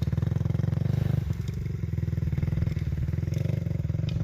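Kawasaki KX250F dirt bike's single-cylinder four-stroke engine running at a low, steady throttle, easing off briefly about a second in.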